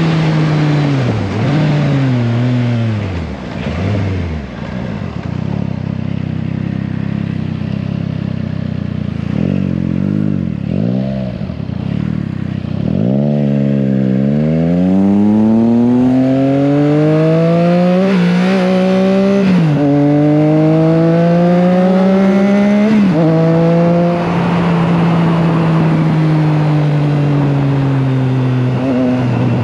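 Triumph Trident 660's inline three-cylinder engine on the move: it slows with the revs falling and a few short throttle blips, then pulls hard up through the gears with three quick upshifts, each a sudden drop in pitch, and settles into a steady cruise near the end.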